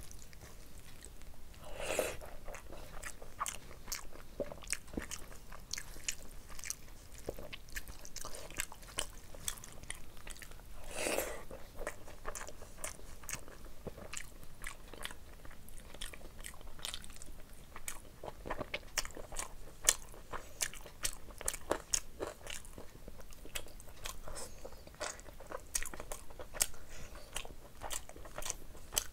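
Close-miked eating of rice and meat curry: chewing with many wet mouth clicks and smacks. There are two louder, noisier moments about two and eleven seconds in.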